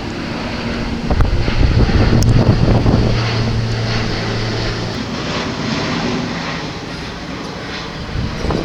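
Airbus A400M Atlas's four turboprop engines running in flight, a steady low propeller drone with a broad rush of noise that swells about two to three seconds in and eases off, with wind buffeting the microphone.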